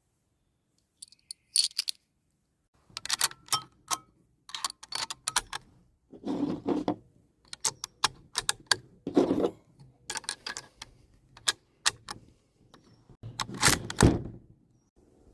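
Metallic clicks and clacks of a Mauser 98 bolt-action rifle being handled and readied to fire, in an irregular string with a few heavier thumps; the loudest thump comes near the end.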